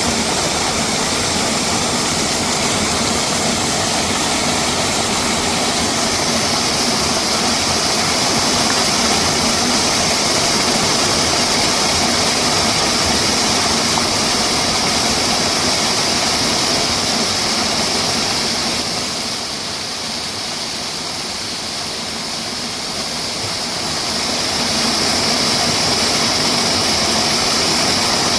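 Steady rushing of a valley stream, its level dipping for a few seconds past the middle before coming back.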